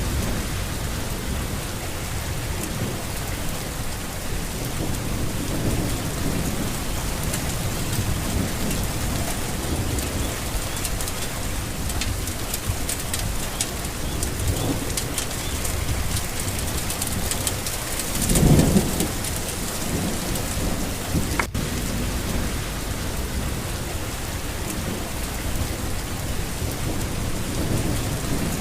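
Steady rain falling, with low rumbles of thunder under it and one louder, short rumble about two-thirds of the way through.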